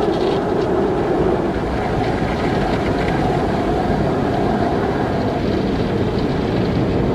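Car wash machinery running with a steady, even noise, strongest in the low and middle range, without a break.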